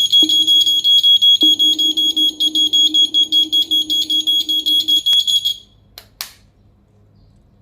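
Small electronic buzzer of a homemade earthquake alarm sounding a high-pitched, rapidly pulsing beep, then cutting off about five and a half seconds in; two short clicks follow.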